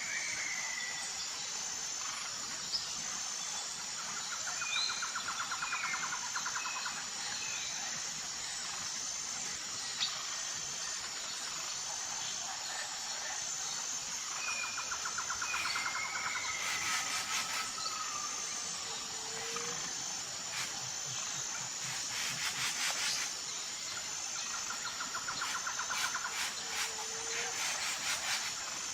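Jungle ambience: a steady high insect drone under scattered bird chirps and calls, with a fast pulsing trill that comes back three times and bursts of rapid clicking.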